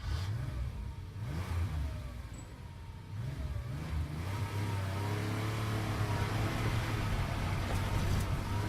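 Car engine revving up and down, then running at a steady drone for the last few seconds.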